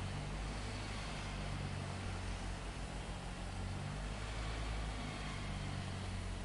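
Steady low machinery hum with an even hiss over it and no distinct knocks or impacts.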